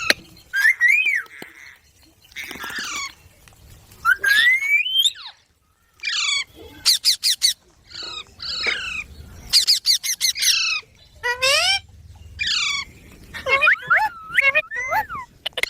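Baby green parrot calling: a run of short squawks and chirps, many bending up and down in pitch, mixed with quick rasping trills, with a brief pause about five and a half seconds in.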